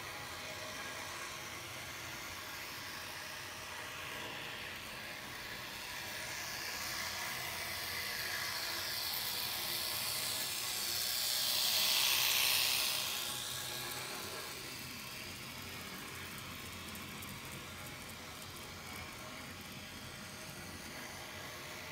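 A train passing by: a hissing rush that builds over several seconds, peaks about halfway through and fades away again, over a steady background hum.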